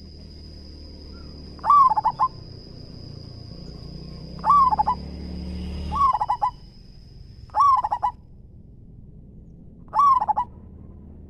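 Zebra dove (perkutut) cooing: five short bursts of rapid, staccato coo notes, a second or more apart. A faint steady high whine sounds behind the first calls and stops just after the fourth.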